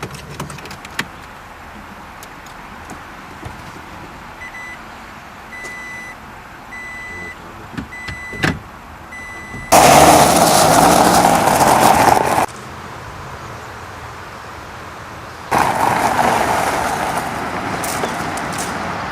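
A car's warning chime beeps repeatedly, about once every three-quarters of a second, then stops. It is followed by two long stretches of loud rushing noise from the car as it moves off, the second fading slowly.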